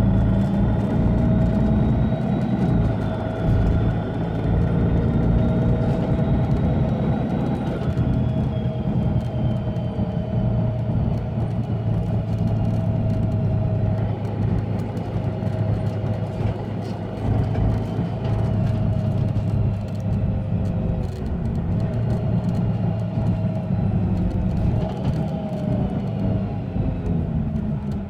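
Mercedes-Benz Citaro bus's OM457hLA diesel engine running under way with a loud, high turbo whistle over the engine drone. The whistle holds its pitch, falls about eight seconds in, then drifts up and down.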